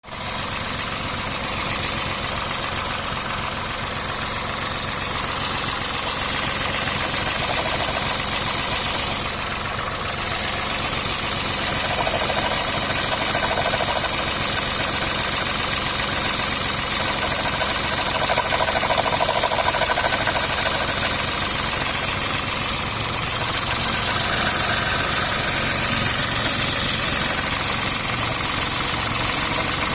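Toyota 1KR-FE three-cylinder petrol engine idling steadily with a strange knock coming from the engine area, whose cause the owner does not know.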